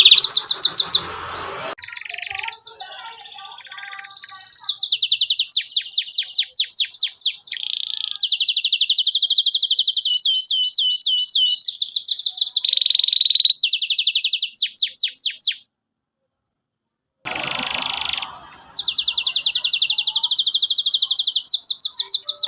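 Domestic canary in full song: fast trills of rapidly repeated high notes, switching from one phrase to the next. About a second and a half of silence cuts in partway through, then a long trill resumes.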